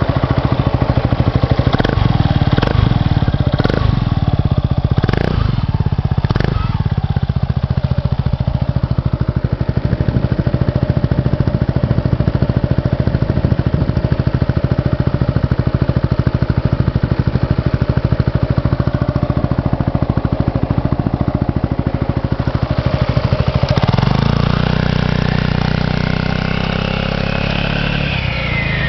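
Yamaha Majesty 250 Fi scooter's single-cylinder engine idling steadily, with a few sharp clicks in the first several seconds. About three-quarters of the way through it is revved, the pitch climbing, then it drops back toward idle near the end.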